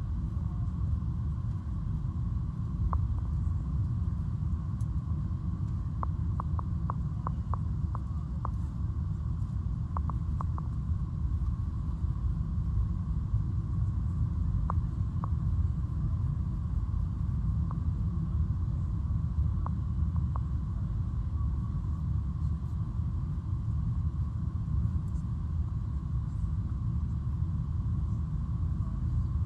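Airliner cabin noise during landing: a steady low rumble of engines and airflow, with a faint steady hum above it and scattered light clicks and rattles.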